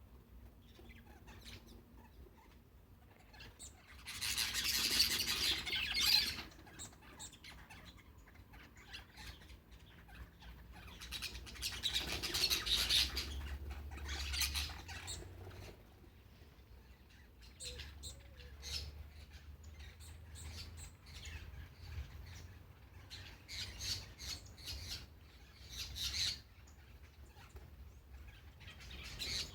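Birds calling outdoors, with two louder, longer spells of calling about four and twelve seconds in, then scattered shorter calls.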